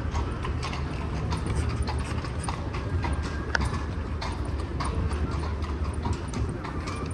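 Carriage horses' hooves clip-clopping on cobbled city streets at a walk, a quick run of sharp knocks over the low rumble of the carriage wheels.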